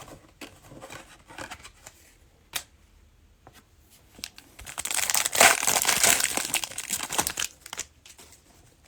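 Cellophane wrapper of a trading-card cello pack being torn open and crinkled: a loud crackling stretch of about three seconds, after a few soft taps of cards being handled.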